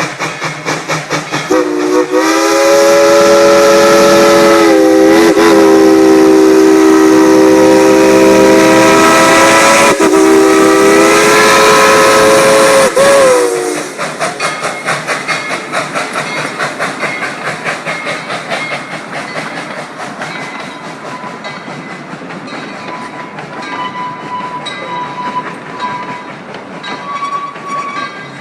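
Narrow-gauge steam locomotive blowing a long chime whistle, several notes sounding together, held for about twelve seconds and cut off sharply. The locomotive and train then run on with a rhythmic chugging and clacking that slowly fades.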